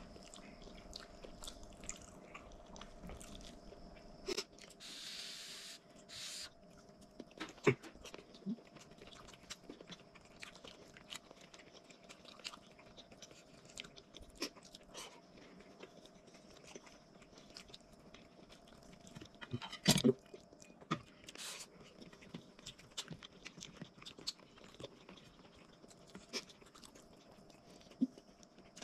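Close chewing and crunching of crispy fried anchovies (ikan bilis) with rice, with many small clicks of fingers and food against plates. A brief hiss about five seconds in, and a sharp knock at about 8 s and again at about 20 s.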